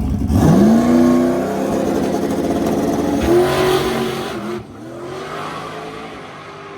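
Car engine revving hard under acceleration, its pitch climbing quickly, then climbing again a little after three seconds. The sound drops off abruptly at about four and a half seconds, leaving a quieter engine.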